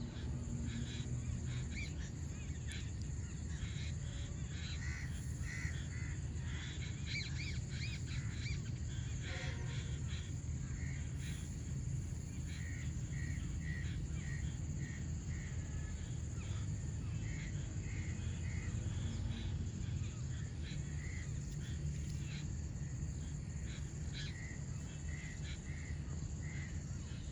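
Birds calling in an open field: runs of short, evenly spaced chirps repeating again and again, over a steady low rumble and a constant high hiss.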